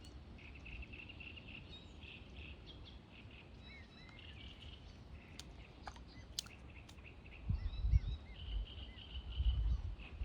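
Cygnets (young swans) peeping in a string of short, high chirps throughout. Low rumbling bursts come in during the last few seconds and are louder than the peeping.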